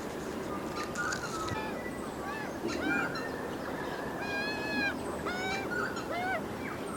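Australian magpies calling: a run of short notes that arch up and down in pitch, several birds overlapping, with one longer drawn-out note about two-thirds of the way through.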